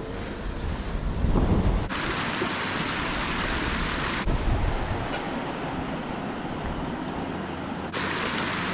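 Wind buffeting the microphone with a low rumble. Twice a loud hiss switches on and off abruptly, for about two seconds early on and again near the end.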